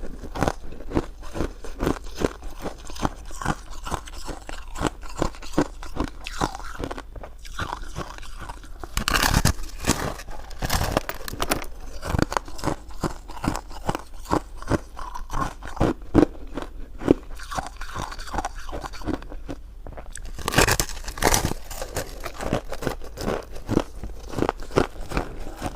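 Close-miked eating of jelly buns and filled mochi: continuous chewing and biting made of many small clicks, with louder bites about nine seconds in and again about twenty seconds in.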